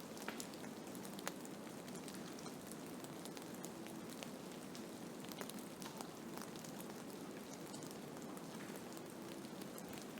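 Blizzard ambience: a steady rushing noise with many fine scattered ticks, as of wind-driven snow or ice pellets striking a surface.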